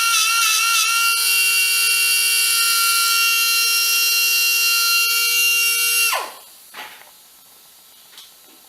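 A high-speed power tool motor running with a high, steady whine, wavering in speed at first, then released about six seconds in and spinning down with a quickly falling pitch; a few faint clicks follow.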